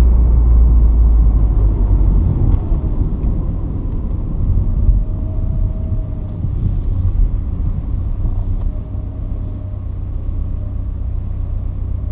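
Porsche 944's 2.5-litre four-cylinder engine and road rumble while driving. It runs loudest for the first two seconds, then eases off and gets gradually quieter.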